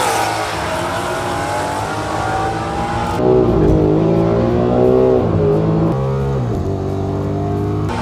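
Ford Mustang GT V8s at full throttle down a drag strip, rising in pitch and dropping at each upshift. About three seconds in, the sound switches to a single car heard from inside its cabin, the engine still pulling hard through the gears.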